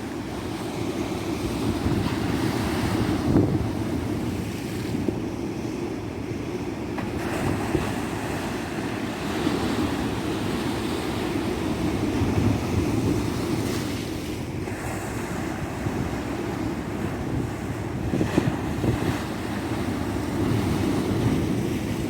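Ocean surf washing onto a beach in a continuous rumble that swells every few seconds as waves break, with wind buffeting the microphone.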